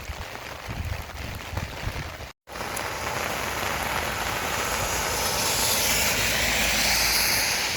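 Rain falling steadily, a dense even hiss, with gusts of wind rumbling on the microphone at first. About two seconds in the sound cuts out for an instant and comes back as a heavier, louder rain hiss.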